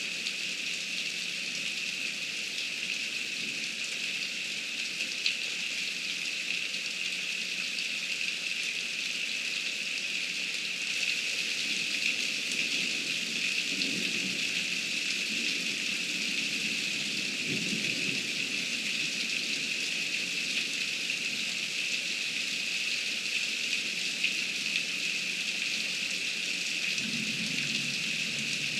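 Heavy rain falling steadily in a dense hiss, with a few low rumbles about halfway through and again near the end.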